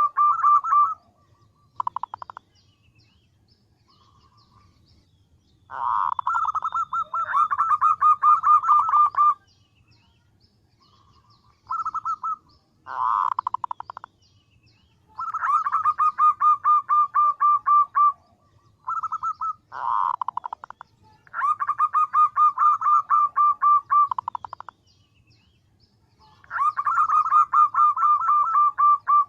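Female zebra dove calling for a male: rapid, trilled runs of short cooing notes, about ten a second. The runs come in repeated bursts, from under a second to about three seconds long, with brief pauses between them.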